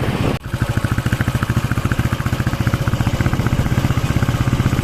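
Motorcycle engine running steadily with an even, rapid pulsing beat. The sound drops out sharply for a moment about half a second in.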